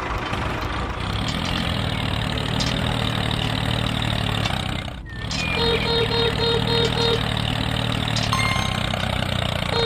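Miniature construction vehicle's engine running steadily, breaking off for an instant about halfway through and then resuming. Soon after the break comes a short run of about five quick beeps, with another beep near the end.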